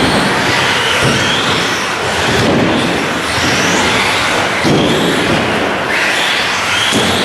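Several 1/10-scale RC short-course and stadium trucks racing on a carpet track, their motors whining in repeated rising glides as they accelerate out of the turns, over a steady rush of tyre and drivetrain noise.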